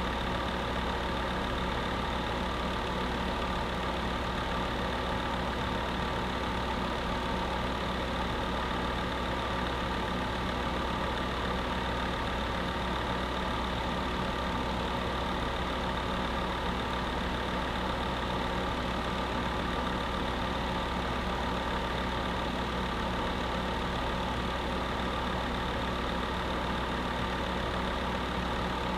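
Electric space heater running steadily: an even, unchanging whir with a low hum underneath.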